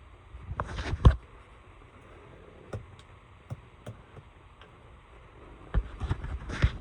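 Scattered light clicks and knocks, with one sharper knock about a second in and a quick run of them near the end, over a low steady hum.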